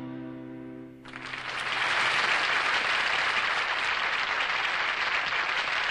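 The band's last chord rings out and fades, then studio audience applause breaks out about a second in and carries on steadily, louder than the chord.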